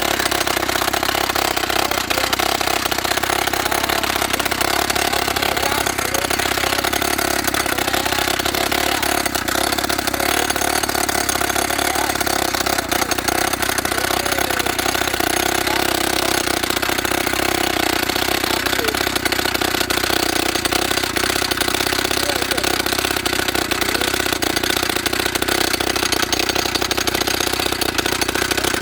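YN30A petrol rock drill's two-stroke engine running steadily with a fast, even rattle.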